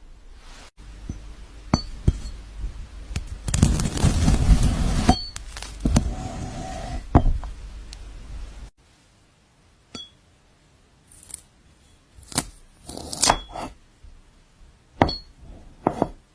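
Knife cutting fruit: a series of sharp clicks and taps of the blade, with a longer crisp, crunchy stretch of slicing about four seconds in and separate sharp knocks in the second half.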